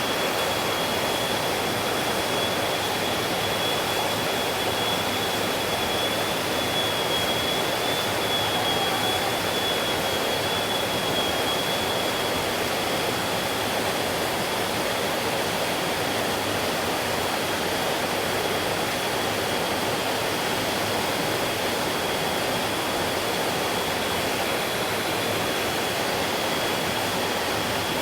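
Mountain stream flowing steadily, an even rush of water, with a thin steady high tone held above it throughout.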